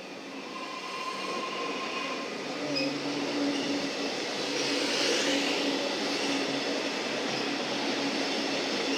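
Metro Melbourne suburban electric train running express through the station without stopping, growing louder and loudest about five seconds in, with a steady hum over the rumble of the wheels.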